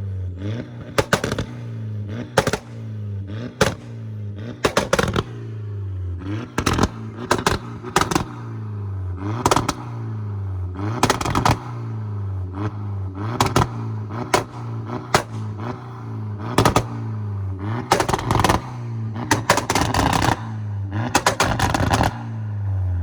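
Straight-piped Volkswagen 1.8T turbo four-cylinder in an MK4 Jetta, held on a two-step launch limiter. Its exhaust gives loud sharp cracks and pops, single or in quick clusters, about every second or two over a steady engine note.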